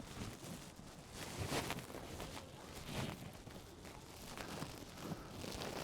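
Footsteps on a walking trail: a few soft, irregular scuffing steps over a faint outdoor background.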